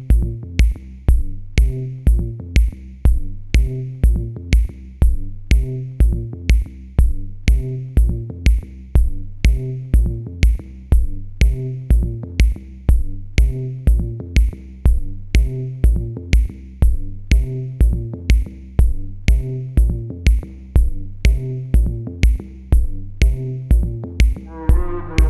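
Electronic background music with a steady drum-machine beat, about two kick drums a second under ticking hi-hats and a repeating synth line.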